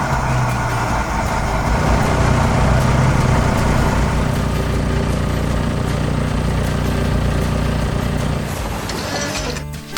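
Truck engine sound effect running steadily, fading out near the end.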